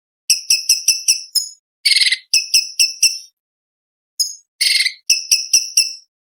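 Orange-bellied leafbird singing: rapid runs of sharp, high chip notes, about four a second, each run with a harsher rasping note mixed in, and a pause of about a second between the two runs.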